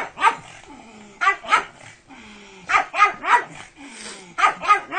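Pug barking in quick bursts of two or three short, sharp barks, about ten barks in all.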